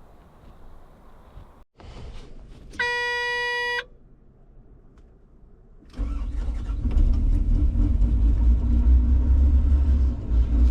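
A steady one-second beep, then about six seconds in the diesel engine of a Caterpillar 315B excavator starts and keeps running with a steady low rumble.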